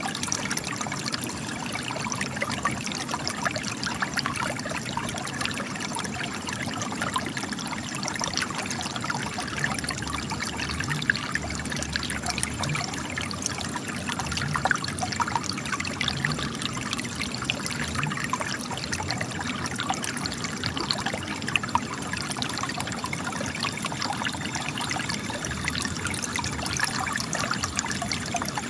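Spring water trickling and splashing steadily out of cracks in rocks, many small splashes over a continuous gush.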